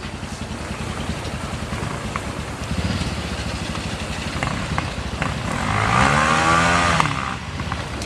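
Dirt bike engine over a steady low running rumble, with one engine revving up sharply for about a second and a half near the end, the pitch climbing and then dropping away. A few faint clanks sound in between.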